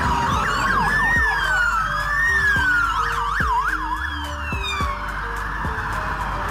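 Electronic police sirens sounding together: a fast yelp sweeping rapidly up and down over a slower wail that rises and falls. Light background music plays underneath.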